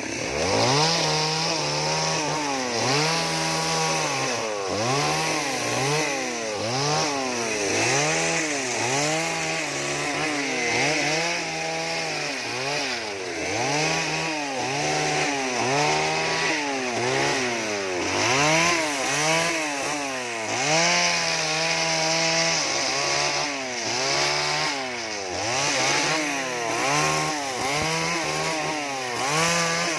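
Two-stroke chainsaw carving wood, its engine revving up and dropping back again and again, about once a second, as the throttle is worked through short cuts.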